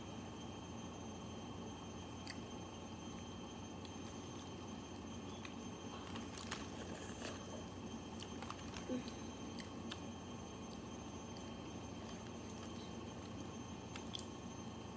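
Faint scattered clicks and soft squishing of crab being picked apart and eaten, over a steady room hum.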